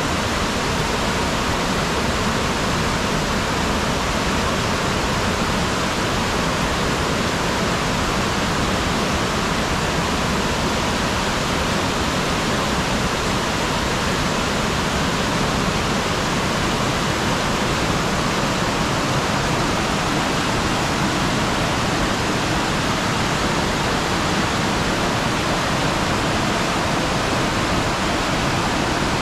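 Waterfall: a steady, dense rush of falling water that does not change.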